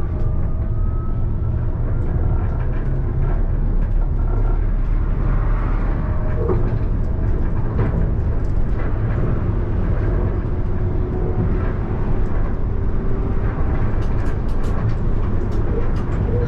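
Alstom Citadis tram running along the track, heard from inside the driver's cab: a steady rumble of wheels on rail with a faint whining tone, and a few sharp clicks near the end.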